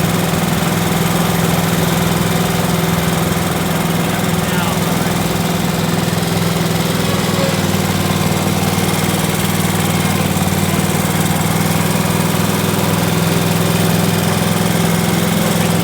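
A lawn mower's small engine running steadily at a constant speed, its note deepening slightly about halfway through.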